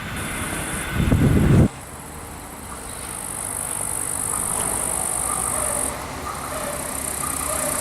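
Train rumble that cuts off abruptly about one and a half seconds in. After it, a quieter steady rail hiss with faint thin whining tones grows slowly louder as a train approaches.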